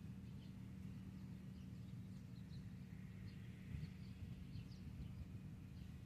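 Faint rural outdoor sound: short, high bird chirps scattered throughout over a low, steady hum like a distant engine.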